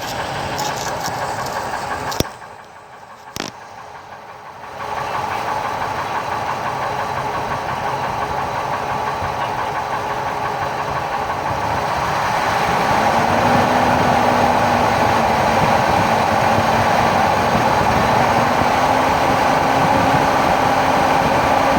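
A 2000 Ford Expedition's 5.4-litre Triton V8 idling, heard from underneath the truck, with a knocking noise whose cause the owner cannot place. A couple of seconds in, the sound drops away briefly with two sharp clicks, then returns and grows louder about halfway through.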